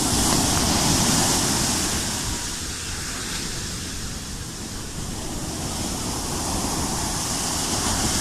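Sea waves surging and washing in, the surf swelling about a second in and again near the end.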